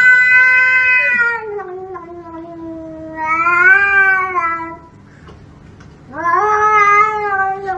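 Domestic cat yowling: three long, drawn-out calls of about two seconds each, the pitch sagging toward the end of each.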